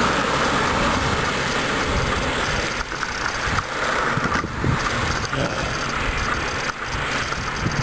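Loud, steady wind buffeting on the microphone of a bicycle rider moving fast, with rushing road and tyre noise.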